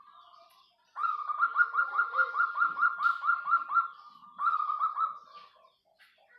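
Zebra dove (Bangkok-strain perkutut) giving its rolling coo: a fast run of repeated notes, about five a second, for nearly three seconds. After a brief pause comes a shorter run of a few more notes.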